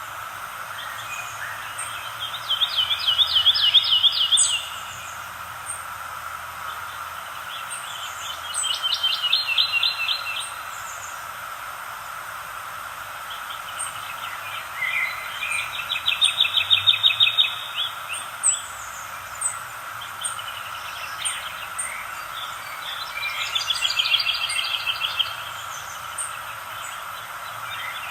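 A songbird sings a short, fast trilled phrase about every five to seven seconds, five times. Faint short high chirps from other birds come between the phrases, over a steady soft hiss of outdoor ambience.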